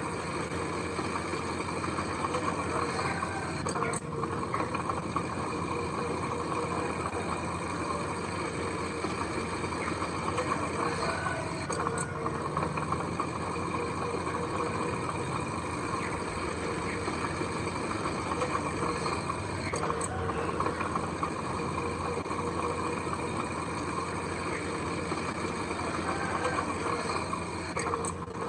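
Heavy diesel engine of earthmoving machinery running steadily, with faint clicks about every eight seconds.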